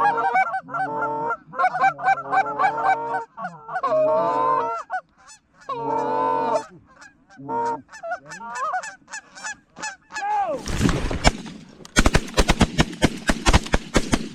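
Geese honking repeatedly for about ten seconds. Then a volley of shotgun fire from several guns breaks out, with many loud shots in quick succession over the last few seconds.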